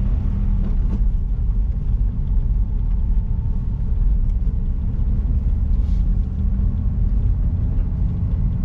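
Honda S660 on the move: its 658 cc turbocharged three-cylinder engine running at a steady speed under a low rumble of road noise.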